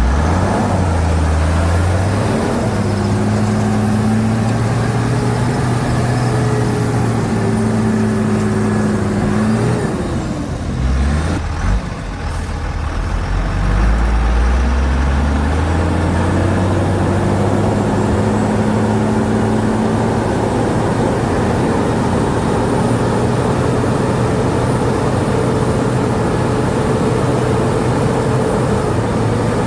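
Shantui DH17C2 bulldozer's diesel engine working under load at steady revs. About ten seconds in the revs drop briefly, then climb again and hold steady.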